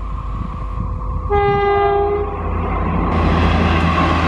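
An Indian Railways electric locomotive sounds its two-tone horn once, for about a second, as it approaches at speed with a Humsafar Express. Then the rumble of the locomotive and coaches on the rails swells as the train rushes past close by.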